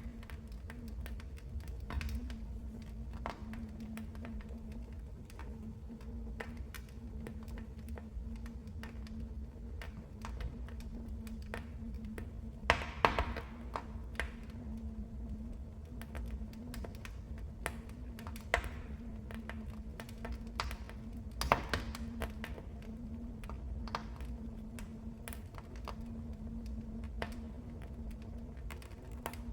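Wood fire burning in a fireplace: irregular small crackles over a steady low rumble of the flames, with a cluster of louder pops a little under halfway through and a couple more sharp pops later.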